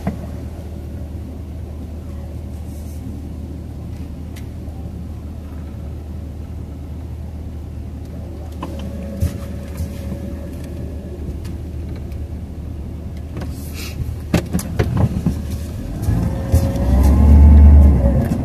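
Car engine idling, heard from inside the cabin, with a few light clicks and knocks. About two seconds before the end it swells into a louder rumble with a rising-and-falling whine as the car pulls away.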